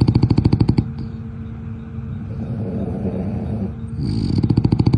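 Young French bulldog snoring in its sleep: a fast fluttering snore of about a dozen pulses a second that stops about a second in, then a quieter breath, then another fluttering snore starting near the end.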